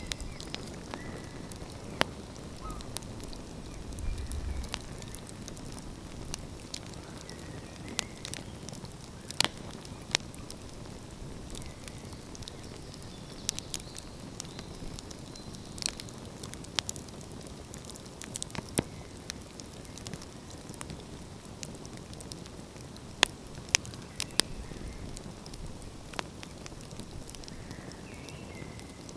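Wood fire crackling, with sharp irregular pops and snaps scattered through a steady low rushing background.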